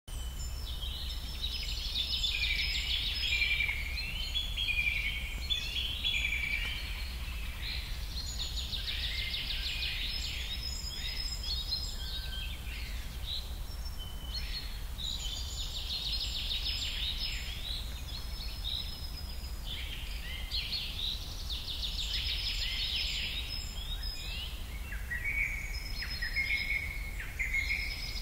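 Birds singing, with repeated runs of fast trills and chirps that come in bursts every few seconds, over a steady low hum.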